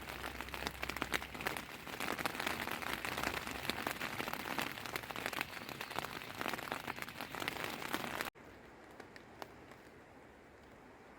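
Heavy rain with many close drops pattering on a surface. About eight seconds in it cuts off suddenly to a fainter rain hiss with only an occasional drop.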